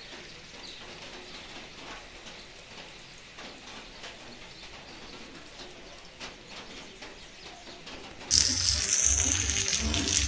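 Faint quiet background with birds calling, then, about eight seconds in, loud steady rain hiss starts abruptly with a low rumble under it.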